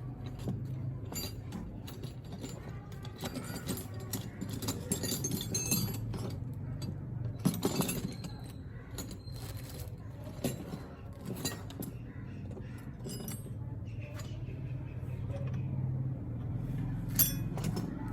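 Scattered metallic clinks and knocks of tools and parts being handled during work on a water pump motor, over a steady low hum.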